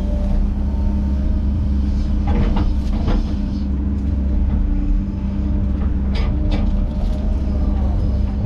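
Heavy diesel equipment engine running steadily under load, with short crackling snaps a couple of times, typical of brush and limbs breaking.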